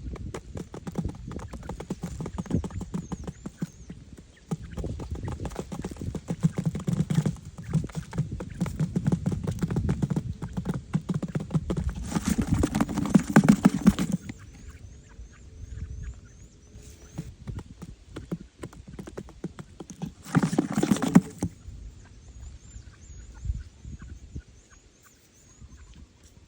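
Rapid, uneven knocking and scraping, as of hand work, with two louder spells about twelve and twenty seconds in; it thins out in the second half, where faint high chirps can be heard.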